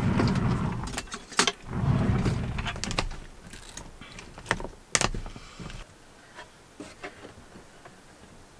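Things being handled and moved about: two stretches of low rubbing or sliding rumble, then a few sharp knocks and clicks, settling to quiet after about six seconds.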